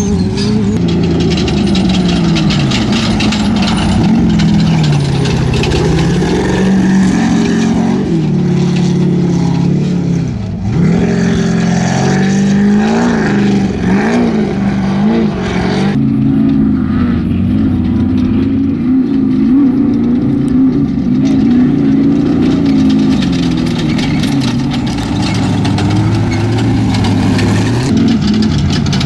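Off-road race vehicle engine running loud, its pitch rising and falling repeatedly as it revs up and eases off.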